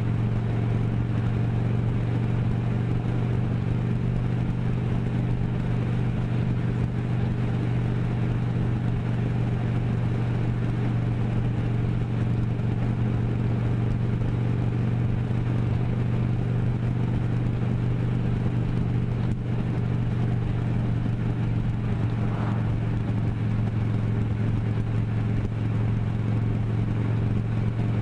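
Vehicle engine running with a steady drone that holds one pitch throughout.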